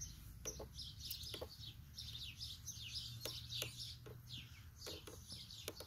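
Small birds chirping faintly: a steady run of short, high chirps, each falling in pitch, with a few faint clicks between them.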